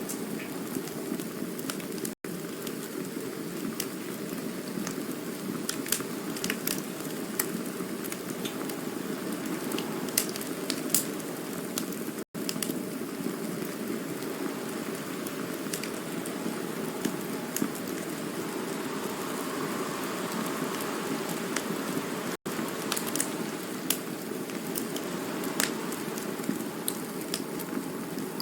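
Campfire burning with a steady low rush and scattered sharp crackles and pops, broken by three very brief dropouts about ten seconds apart.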